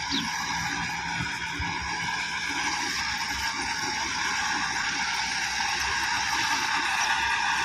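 Massey Ferguson 375 tractor's Perkins diesel engine running steadily under load while pulling a heavily loaded trolley, growing gradually louder.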